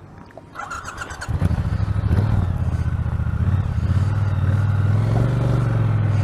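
Motorcycle electric starter cranking briefly; the engine catches a little over a second in and settles into a steady idle.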